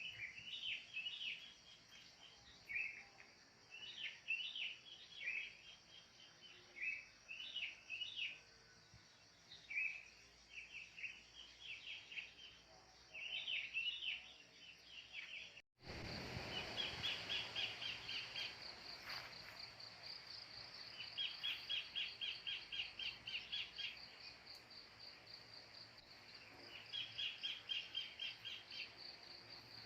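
Wild birds calling: short, quick chirps about every second or two in the first half. After an abrupt cut about halfway through, a steady high insect drone comes in, with three runs of fast rattling trills lasting two to three seconds each.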